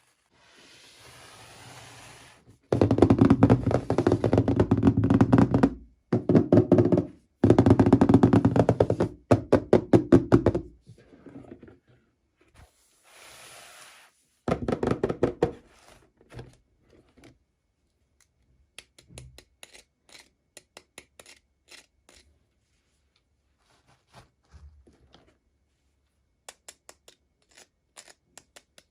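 Toy packaging being handled in an unboxing: two loud spells of rapid knocking and rattling, with softer rustling between them, then scattered light clicks.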